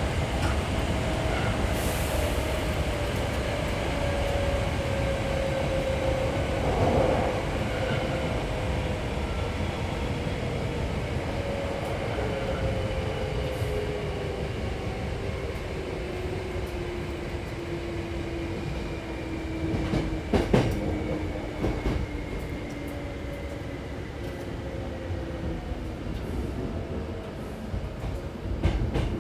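Interior running noise of a Hankyu 6300 series train car: steady rumble of the wheels on the track, with a faint whine that falls slowly in pitch over about twenty seconds as the train slows. A short cluster of sharp wheel clacks comes about two-thirds of the way through.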